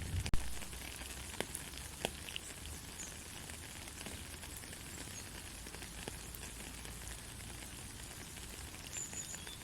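Soft, steady rain falling, an even hiss with a few louder drips, the sharpest just after the start. A brief high chirp sounds near the end.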